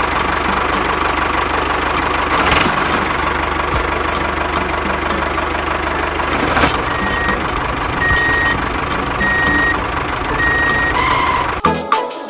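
Vehicle engine running steadily, with a reversing alarm beeping four times in the second half.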